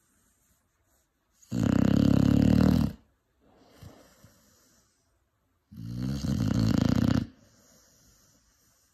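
Five-month-old Cane Corso puppy snoring in its sleep: two loud, rattling snores about a second and a half long, a few seconds apart, with a soft breath between them.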